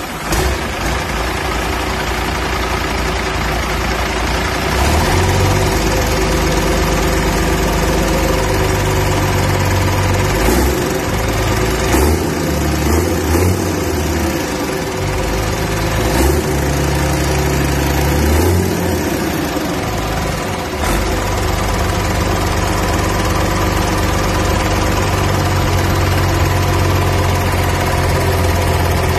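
Mercedes-Benz OM366 turbocharged inline-six diesel engine running at idle. Its low hum shifts up and down several times.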